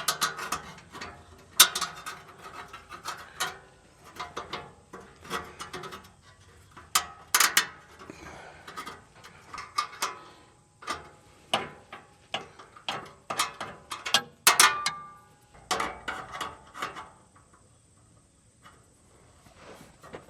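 Irregular metallic clicks, clinks and clanks of hand tools working steel plumber's strap onto a loose exhaust heat shield under a truck.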